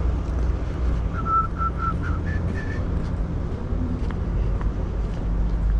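Steady low rumble of wind buffeting the microphone over a running vehicle, with a quick series of short high electronic beeps about a second in: three at one pitch, then two slightly higher.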